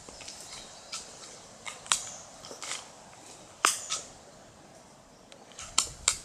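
Footsteps on dry leaf litter and twigs: scattered, irregular crunches and snaps, the loudest a little past the middle.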